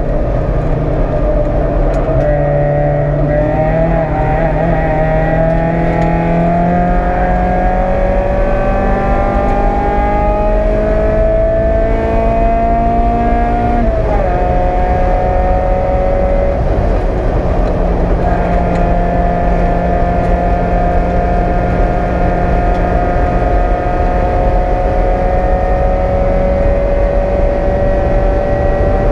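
A Mazda Miata race car's 1.8-litre four-cylinder engine, heard from inside the cabin, pulling hard under throttle. The revs climb steadily for a long stretch, drop sharply with an upshift about halfway through, then climb slowly again.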